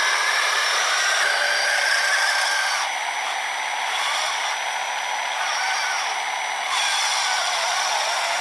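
Small electric motors of an RC snowblower and the RC truck carrying it whirring steadily, with a high whine that wavers slightly in pitch. The sound drops a little in level for a few seconds in the middle, then comes back up.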